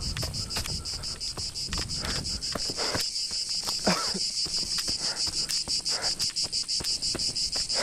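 Cicadas singing in a steady, high pulsing chorus, about eight pulses a second, with no break.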